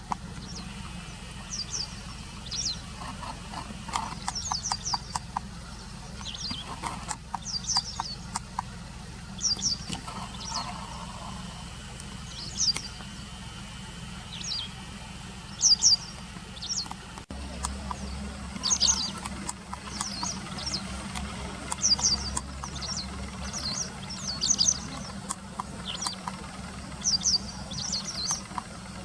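Small birds chirping: short, high, sharp calls, often two or three in quick succession, repeated every second or two over a steady low hum like distant traffic or an engine.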